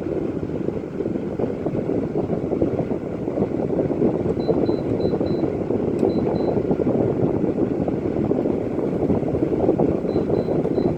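A new LG 12,000 BTU air conditioner running, with a steady rush of fan-blown air. Faint, short high beeps come in twice in small groups, and a single sharp click falls about six seconds in.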